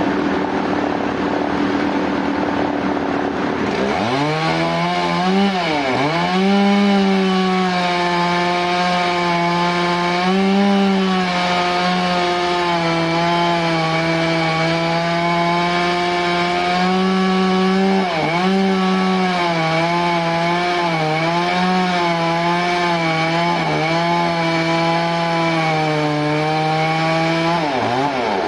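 Power saw cutting through a large log. The motor starts running at high, steady speed about four seconds in, and its pitch sags and recovers several times as it bogs under the load of the cut.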